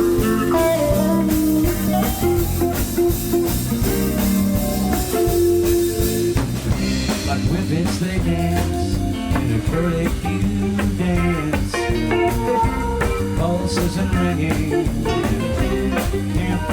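Live blues-rock band playing, with electric guitars, bass, drums and keyboards, picked up by a camcorder's built-in microphone.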